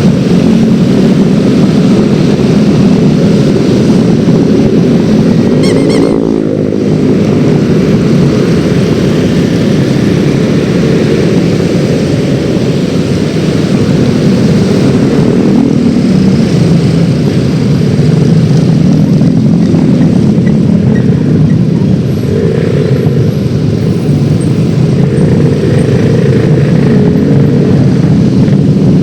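Yamaha X-Ride 113cc scooter riding along, its single-cylinder engine running under loud, steady wind rush on the microphone. A brief high tone sounds about six seconds in.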